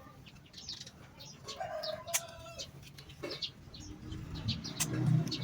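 Chickens clucking and a rooster crowing once for about a second, over many short high bird chirps. A low hum swells near the end.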